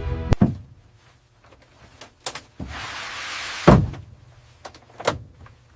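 A run of heavy clunks and knocks, with a hiss lasting about a second near the middle that ends in the loudest thud, and one more thud near the end.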